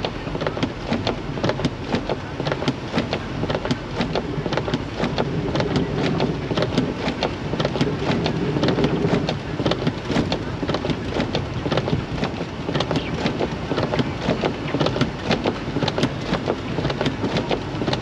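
Car driving through a snowstorm, heard from inside the cabin: a steady road and engine drone with dense, irregular ticking throughout.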